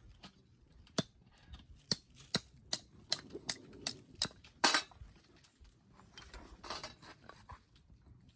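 Wood fire crackling, with a run of sharp, irregular pops and cracks and a short hiss partway through.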